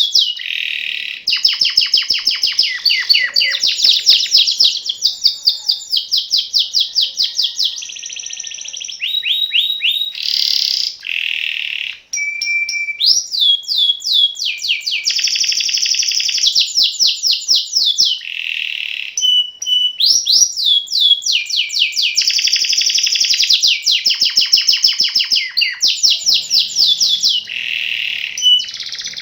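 Domestic canary singing a long, unbroken song of rapid rolling trills between 2 and 8 kHz, switching every second or two from one trill to another, with only brief gaps.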